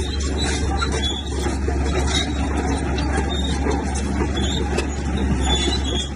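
Heavy diesel earthmoving machinery running steadily under load, a constant low engine rumble with scattered short metallic clanks over it.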